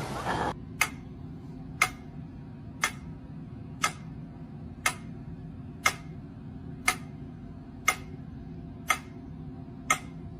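A clock ticking, ten sharp ticks exactly once a second over a faint steady low hum.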